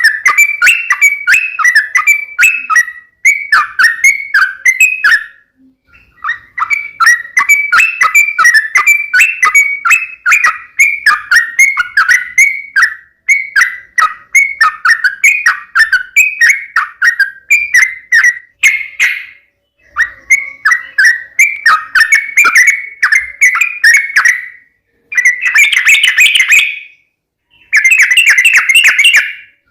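Yellow-vented bulbul (trucukan) singing loudly in long runs of fast, chattering, bubbling notes, with a few short breaks between phrases.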